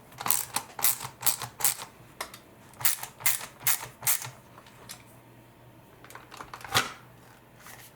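Series of sharp plastic-and-metal clicks, grouped every half second or so through the first four seconds, from a Phillips #1 screwdriver working the bottom screws out of a Dyson V10 cordless vacuum's battery, with one louder click near the end.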